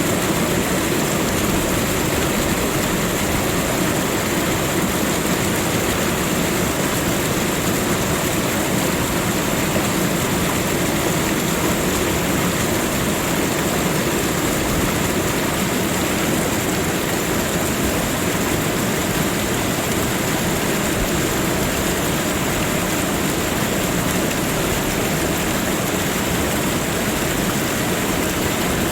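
Steady, unbroken rush of water, like a stream or waterfall, at an even level with no distinct events.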